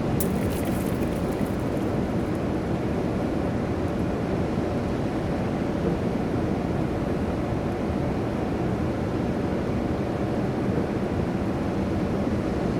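Automatic car wash equipment running: a steady rushing noise with a faint steady hum, and a few light ticks in the first second.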